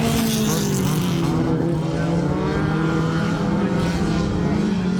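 Dirt-track race cars running laps on the oval, their engines droning at speed. The engine note slides lower over the first few seconds and climbs again near the end.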